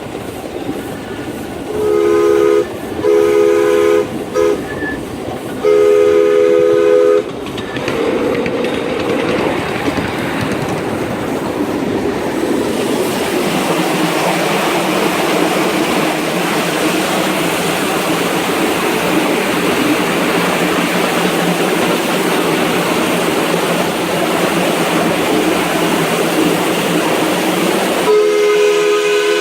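Live-steam Atlantic (4-4-2) model steam locomotive's chime whistle, several notes sounding together, blown three times: two short blasts and a longer one. The train then runs with a steady rushing noise, and the whistle blows once more near the end.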